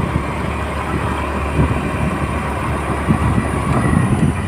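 A vehicle running steadily along a road: a continuous low engine drone with road noise and a faint steady whine.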